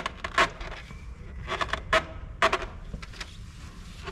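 A string of short scraping and rustling sounds, about half a dozen in four seconds, as hands grip a diesel fuel filter with a rag to give it a final tightening.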